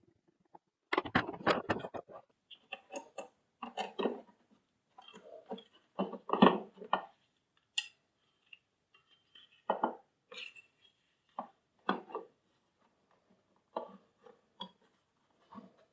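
Vacuum cleaner parts being handled and fitted together: irregular clicks, knocks and clatter in short bursts, the busiest stretch about a second in.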